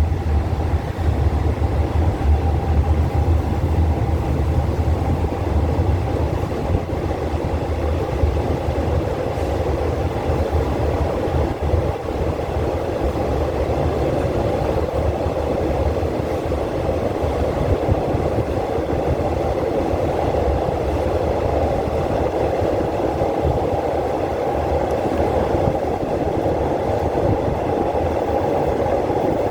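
A train running with a steady, continuous rumble; the deep low rumble is heavier for the first ten seconds or so and then eases.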